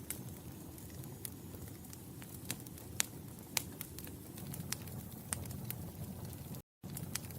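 Wood fire crackling: irregular sharp pops and snaps over a steady low rumble of burning. It cuts out for an instant near the end.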